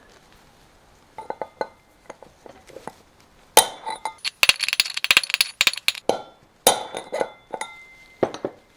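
Hammer striking a steel drift pin, sharp ringing metal-on-metal clinks, driving the outer race of a collapsed wheel bearing out of a quad bike's front hub. A few light taps come first, then a fast run of blows, a short pause, and more blows near the end.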